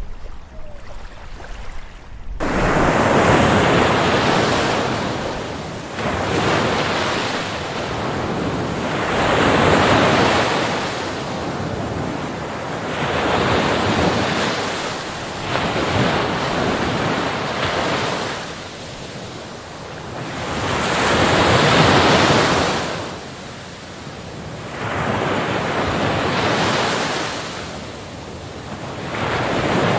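Ocean surf: waves breaking and washing on a beach in repeated swells, about every five seconds, with wind noise on the microphone. The surf cuts in suddenly about two seconds in, after a quieter stretch.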